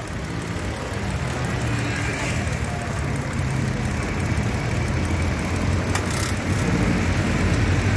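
Mitsubishi Mirage's engine idling with the air-conditioning switched back on, a steady low hum that grows slightly louder. A single brief click about six seconds in.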